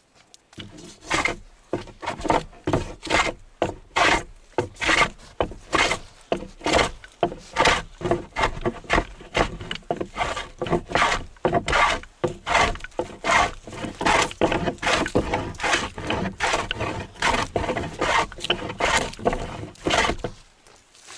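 Hand plane shaving the face of a rough chainsaw-milled board, a run of rasping strokes about two a second that stops just before the end.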